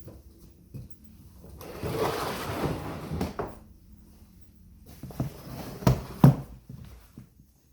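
Handling noises: a rustling, scraping stretch, then a cluster of sharp knocks, the two loudest close together.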